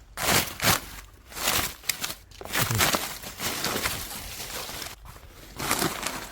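Leaf litter and plant debris rustling and crunching in irregular bursts as it is disturbed.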